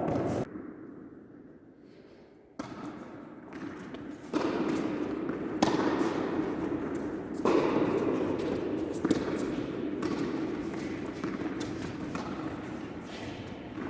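Tennis balls being struck by rackets and bouncing on the court during a doubles rally: a string of sharp knocks over a steady hum of hall noise, with a quieter stretch near the start.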